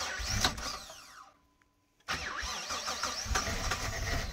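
A 2004 Jeep Liberty's 3.7-litre V6 running at idle after a cold start, with a noisy note that may be an exhaust manifold leak. The sound dies away to silence for about a second in the middle, then the engine comes back abruptly.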